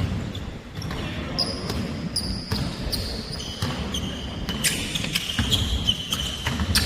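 Pickup basketball game in a gym: a basketball bouncing on the court floor, with many short high sneaker squeaks against the floor, echoing in the hall.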